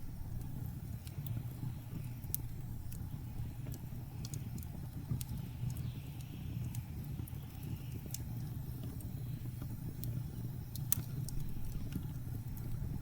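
Wood fire crackling, with sharp irregular pops, over a steady low rumble of blizzard wind.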